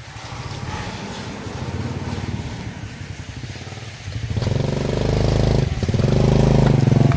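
Motorcycle engine running and coming closer, growing much louder about four seconds in.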